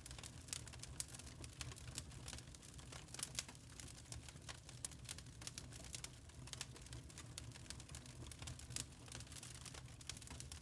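Burning charcoal crackling: many small, irregular pops and snaps, several a second, over a steady low rumble.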